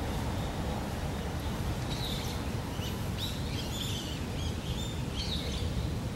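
Small birds chirping in a quick cluster of short calls from about two to five and a half seconds in, over a steady low background hum.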